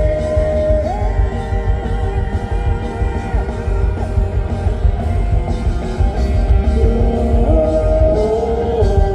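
Live rock band playing an instrumental passage: an electric guitar holds long notes, sliding up in pitch a few times, over drums and bass.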